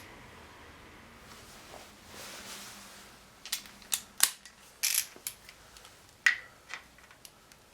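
A handful of sharp, irregularly spaced metallic clicks and taps from hand tools on the motorcycle engine, after a few quiet seconds.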